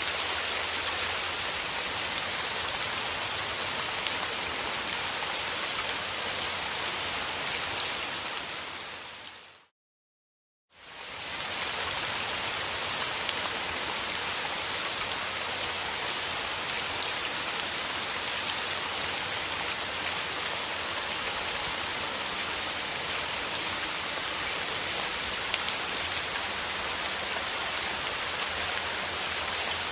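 Steady rain falling, an even hiss with the patter of drops. About nine seconds in it fades out to silence for about a second, then fades back in.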